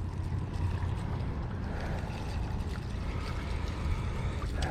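Steady rush of flowing creek water with a low rumble underneath.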